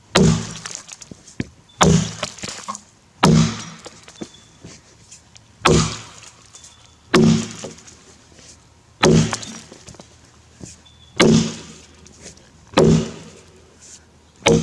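Axe chopping into a grey gum log, about nine heavy strikes spaced a second and a half to two seconds apart, each a sharp thunk with a short ring.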